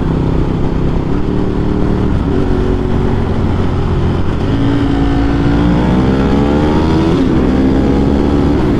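2009 Ducati 1198's L-twin engine through a Termignoni exhaust, heard on board under riding wind noise. It pulls steadily, climbs in pitch for a couple of seconds under acceleration, then drops sharply with an upshift about seven seconds in and pulls on steadily.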